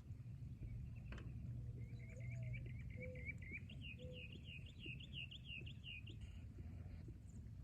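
A songbird singing a series of quick repeated notes. They start as a steadier run and become rising-and-falling notes at about four a second, then stop about six seconds in, over a low steady forest background.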